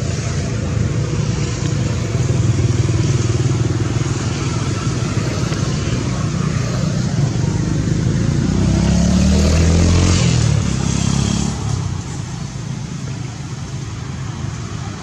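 A motor engine running with a steady low rumble, growing louder about eight seconds in and easing off at about twelve seconds.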